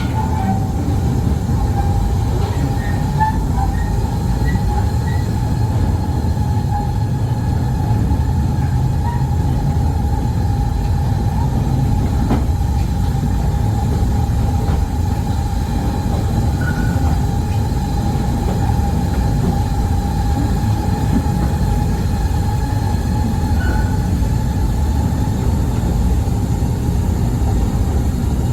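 Mail Rail narrow-gauge ride train running through an underground tunnel: a steady low rumble with a constant high whine or squeal that runs throughout.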